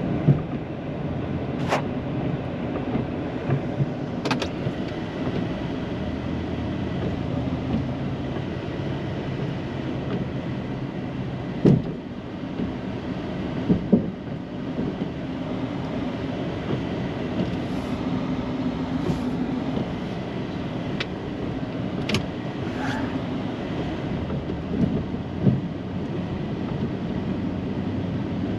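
Plow truck's engine running steadily under load while pushing snow, with occasional sharp knocks and clunks.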